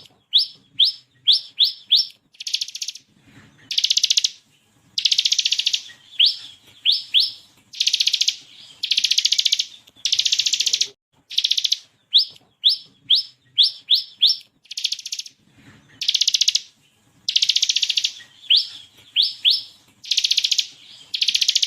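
Bar-winged prinia (ciblek kristal) singing: dense buzzing trills of about half a second to a second each, alternating with quick runs of two to five sharp, upward-sweeping whistled notes.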